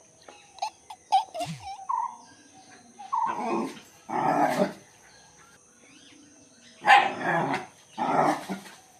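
A dog gives a few short high yips, then barks four times in two pairs, each bark about half a second long.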